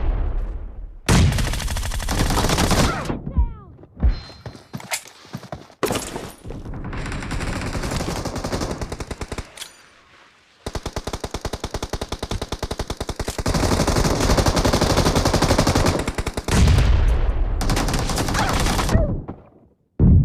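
Video-game automatic gunfire in repeated bursts of rapid shots, with a long unbroken burst of fire in the second half.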